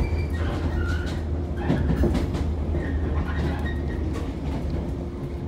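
Interior running noise of a Shinano Railway electric train as it rolls slowly into a station: a steady low rumble under a faint constant hum.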